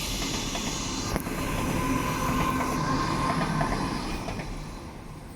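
A Sydney Trains Waratah electric train passing through the station: steady running noise of wheels on rail with a faint steady whine, dying away over the last second or so.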